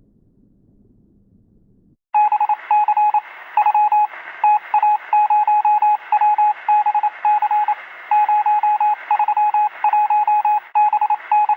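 Morse code sound effect: a single-pitched telegraph tone keyed in short and long beeps over radio static, starting abruptly about two seconds in. Before it there is only a faint low rumble.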